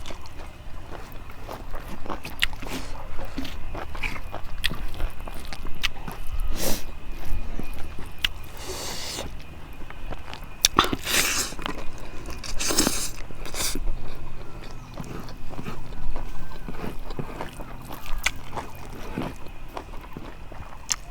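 Close-miked eating: a person chewing a mouthful of rice and fish curry, with many sharp mouth clicks and a few louder noisy bursts of chewing about midway through.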